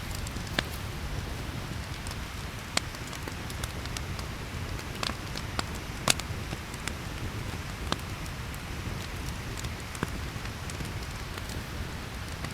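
Campfire crackling: a steady hiss and low rumble with sharp, irregular pops about every second or two.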